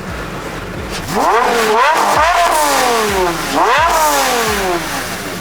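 Car engine revved hard twice, about two and a half seconds apart. Each time the pitch climbs quickly and then winds down slowly.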